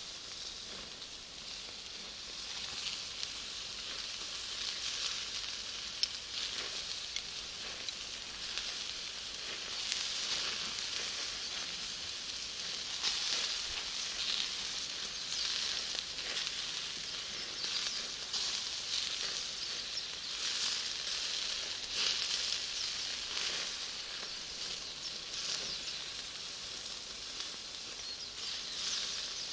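Bonfire of firewood and Iwate cut charcoal crackling, with many small irregular pops over a steady hiss.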